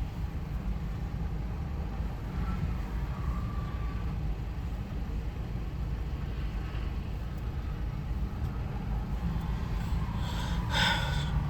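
Loaded Canadian Pacific coal train rolling slowly past with a steady low rumble. A brief, higher-pitched sound comes about ten and a half seconds in.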